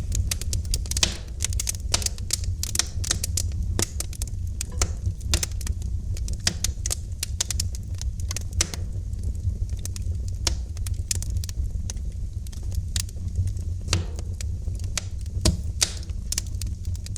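Wood fire crackling in a fireplace: many irregular snaps and pops over a steady low rumble.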